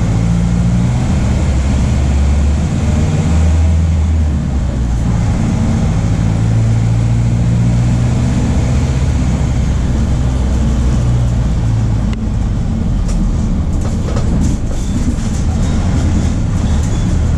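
MAN D0834 four-cylinder turbo-diesel of a VW 17.230 OD bus running under way, its note rising and falling as the revs change. From about two-thirds of the way through, light rattling clicks join the engine note.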